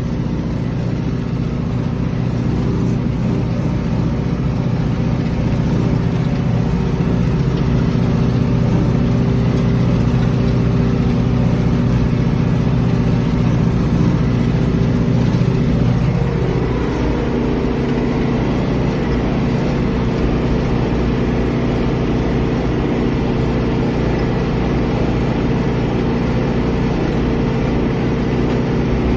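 John Deere 2755 tractor's four-cylinder diesel engine running steadily while pulling a hay rake. About two-thirds of the way through, its note changes.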